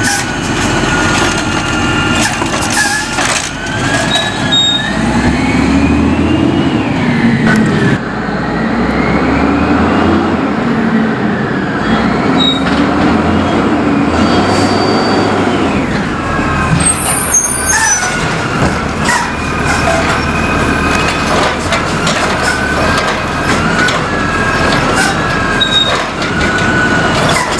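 Condor recycling truck with a Curbtender body, its diesel engine running and revving up and down several times in the middle, with scattered clanks and hisses.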